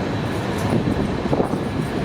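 Passenger train running on the rails: a steady low rumble of wheels and carriages with faint scattered clatter.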